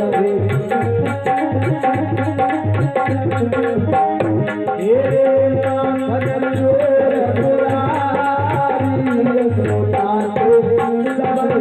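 Live devotional aarti music: tabla playing a steady rhythm under a continuous gliding melody.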